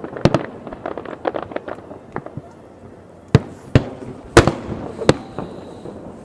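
Aerial fireworks going off: a quick run of crackling pops at first, then four loud separate bangs spaced about half a second to a second apart.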